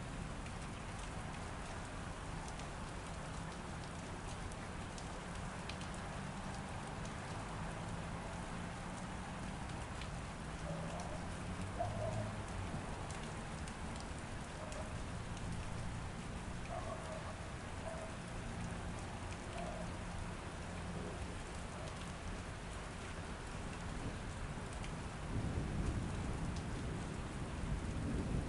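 Steady rain falling, with low rolls of thunder; a louder thunder rumble builds near the end.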